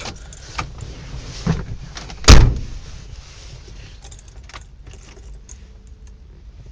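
Truck door slammed shut with one loud thump about two seconds in, after a couple of lighter clicks, with keys jingling. A low steady rumble runs underneath.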